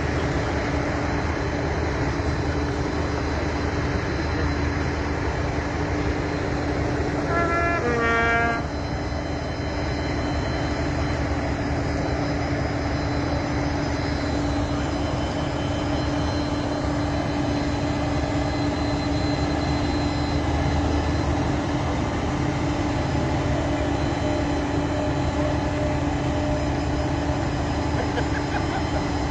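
Steady vehicle engine and running noise with a constant hum. A brief pitched tone in two short steps comes about eight seconds in.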